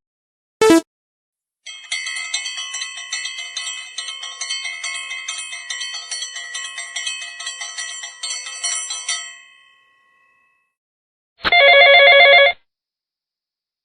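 A brief blip, then a bell telephone ringing with rapid clapper strikes for about eight seconds before dying away. Near the end comes a separate ring of about a second, a pulsing trilled phone tone.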